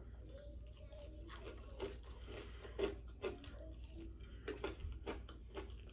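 A person chewing and biting food close to the microphone: irregular soft smacks and crunches as she eats a breakfast of egg and fried potatoes. The loudest bites come a little before the middle.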